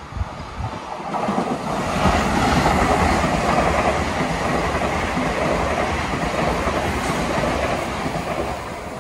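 Metro-North M8 electric commuter train passing through a station at speed without stopping: steady rush of wheels on rail with clickety-clack. It builds about a second in, stays loud while the cars go by, and fades near the end.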